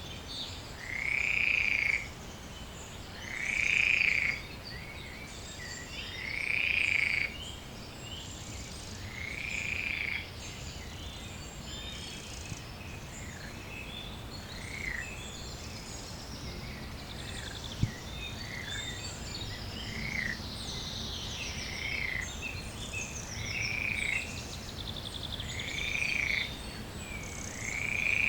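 An animal at the pond calling over and over, each call about a second long and repeated every two to three seconds, loudest early on. Many small chirps from other creatures sound higher up throughout.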